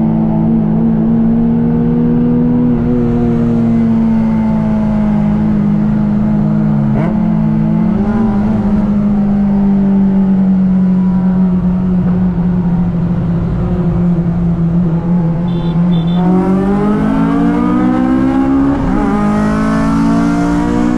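Car engine under way, a loud steady drone that slowly sinks in pitch for about fifteen seconds, then climbs steeply as the car accelerates hard, with a short dip near the end.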